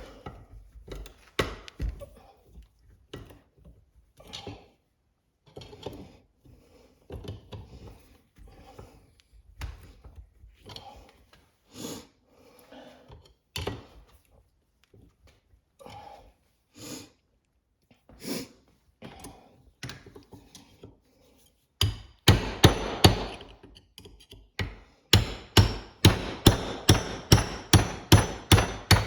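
Hammer blows on a screwdriver used as a chisel to cut and collapse a worn bushing out of an automatic transmission part, metal on metal. First come scattered knocks and scraping, then near the end quick runs of strikes, about three a second.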